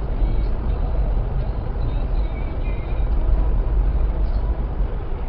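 Steady low rumble of a moving vehicle: engine and road noise, with no distinct impact.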